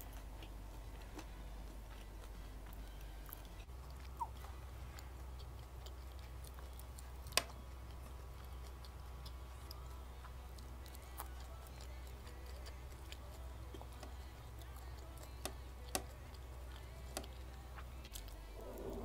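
Quiet close-up chewing of a sushi roll, with a few sharp clicks scattered through, over a steady low hum.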